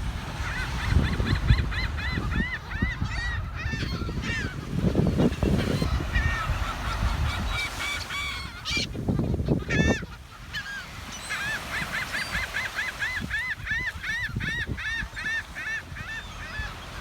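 A large flock of seagulls calling continuously, many short, repeated arched calls overlapping, with a brief lull about ten seconds in. A low rumble runs underneath.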